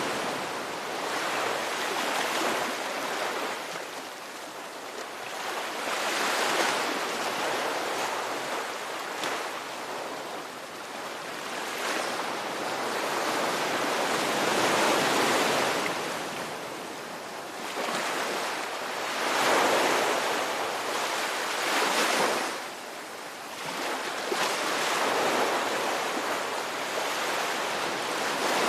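Ocean waves breaking and washing on a shore, surging up every few seconds in a steady rolling hiss.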